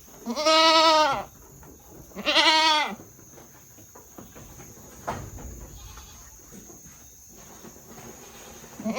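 Goats bleating: two loud, wavering calls, each about a second long, in the first three seconds, and another starting right at the end.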